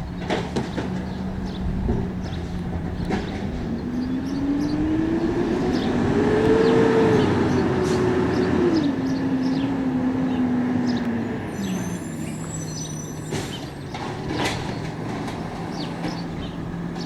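Garbage truck engine idling, then revving up for several seconds and stepping back down to idle, as when the engine speeds up to run the truck's hydraulics; scattered clanks and knocks.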